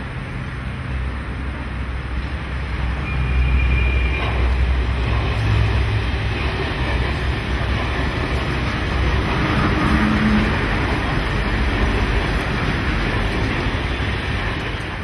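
Mumbai suburban electric multiple unit (local train) running past, a steady rumble of its wheels on the rails that grows louder about three seconds in and stays loud as the coaches go by.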